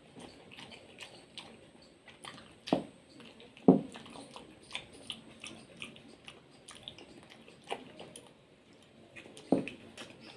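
Close-miked chewing of soft, juicy palmyra palm fruit kernels (ice apple), a run of small wet mouth clicks and squishes with three louder bites, about 3 and 4 seconds in and near the end.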